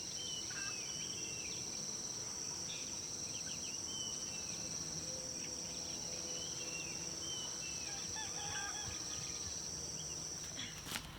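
Insects droning steadily at a high pitch, with birds chirping now and then; the drone cuts off near the end as sharp clicks begin.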